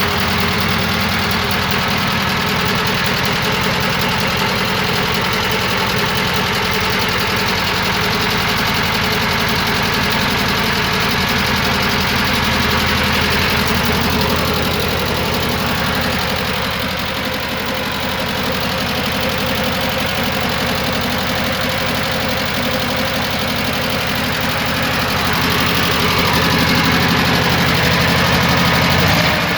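ZAZ Zaporozhets air-cooled V4 engine running at idle shortly after a start. Its speed sags about midway, then picks up again near the end.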